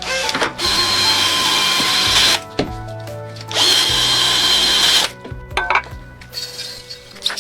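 Power tool running in two bursts, the first about two seconds long and the second about a second and a half, each with a steady high whine. Between the bursts there are a few clicks.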